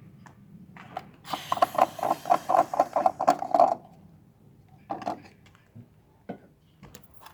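Ratchet wrench clicking in a fast even run for about two and a half seconds, followed by a few separate metal clanks of tools being handled.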